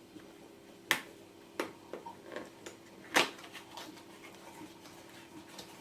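Small cardboard box being opened and its packaging handled: a few sharp clicks and snaps, the loudest about three seconds in, over a faint steady hum.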